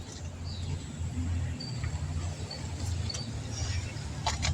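A steady low mechanical hum with small birds chirping over it, and a few sharp clicks near the end.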